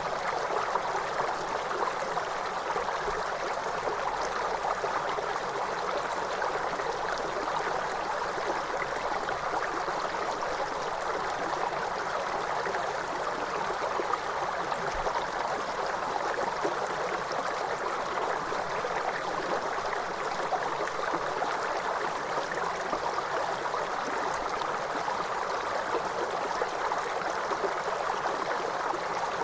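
Waterfall: cascading water rushing steadily, an even hiss that keeps on without change.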